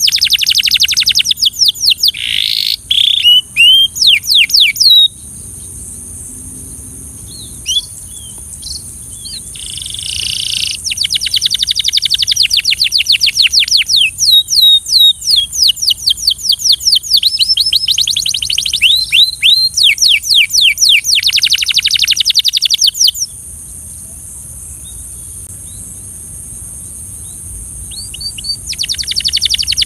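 Belgian canary singing: fast trills of rapidly repeated high notes in long phrases, broken by pauses of a few seconds with only a few scattered notes.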